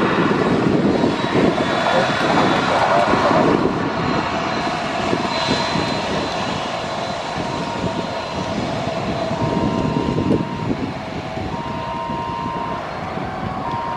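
Jet airliner's engines at take-off thrust, a loud rushing roar for the first few seconds that then slowly fades as the aircraft climbs away.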